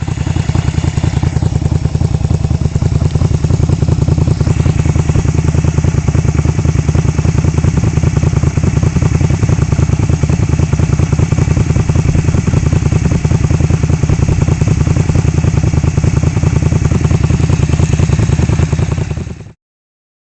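A stock Honda Shadow V-twin motorcycle engine running steadily at a constant speed with a rapid, even exhaust pulse, cut off suddenly near the end.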